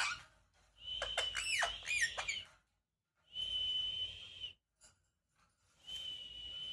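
A pet parrot whistling: three long, steady, high whistles with short gaps between them. The first whistle is broken by several quick downward-swooping notes.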